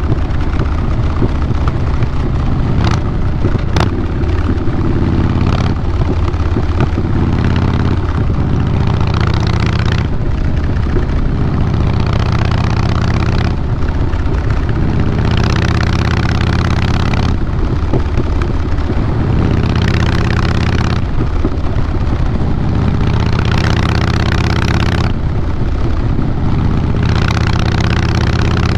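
The V-twin exhaust of a 2012 Harley-Davidson Fat Boy Lo runs steadily through a Vance & Hines Big Radius 2-into-2 exhaust; the engine is a Twin Cam 96B. A surge of hiss comes every couple of seconds over the low, steady engine note.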